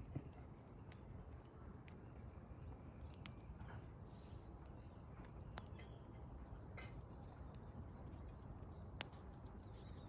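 Firewood burning in a campfire, faint and steady, with sharp crackles and pops at scattered moments, the clearest about a second in and near the end. Wild birds call faintly now and then.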